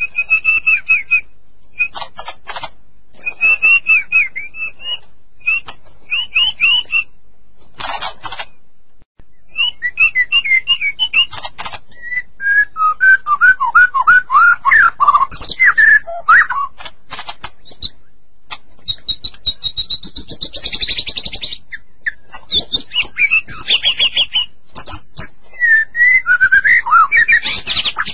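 White-rumped shama (murai batu) singing: a long run of loud, varied phrases of fast repeated notes, trills and rapid chatters, with short pauses between phrases. Past the middle it gives a longer high whistle.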